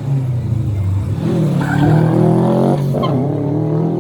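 Rally car engine revving hard under acceleration, its pitch climbing from about a second in, dipping briefly at a gear change near three seconds, then pulling on.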